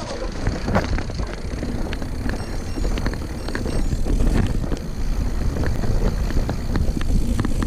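Mountain bike riding over a rocky trail: tyres and frame rattling with scattered knocks, over a steady low rumble of wind on the microphone.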